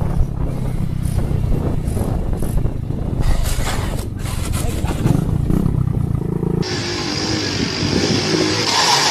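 Motorcycle engine running, with clattering. About six and a half seconds in, the sound changes suddenly to a hissier one.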